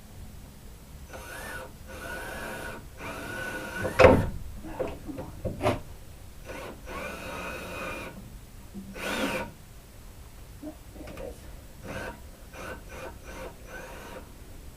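Ryobi cordless drill driving screws into a wooden board in several short runs of motor whine, with a sharp knock about four seconds in and light clicks and handling of wood near the end.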